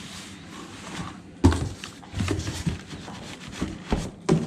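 Parts and packaging being handled in a cardboard box: a few sharp knocks and rustles, the loudest about a second and a half in and two more near the end.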